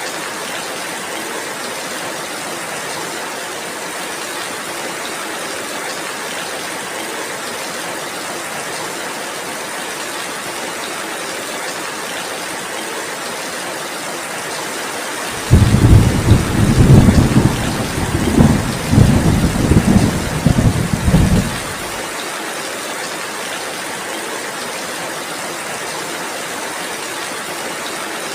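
Heavy rain falling steadily. About fifteen seconds in, a loud low thunder rumble starts suddenly, rolls in several surges for about six seconds, then stops abruptly.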